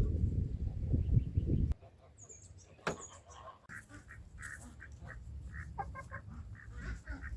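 A low rumble for about the first two seconds, then birds calling: a few high chirps, followed by a run of short, repeated calls.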